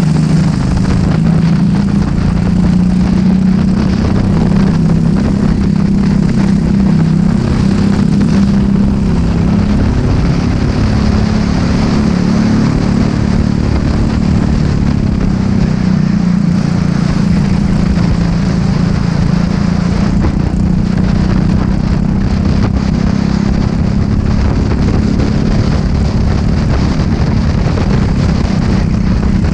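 Racing kart engine running hard at speed, its pitch shifting a little up and down over the lap.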